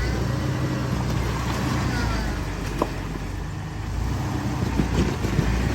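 Jeep engine running steadily at low revs, with a few light knocks near the end.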